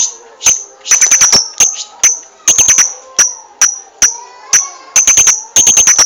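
Lovebird chirping energetically: sharp, very short high-pitched chirps, some single and some in quick runs of four or five, repeating without pause.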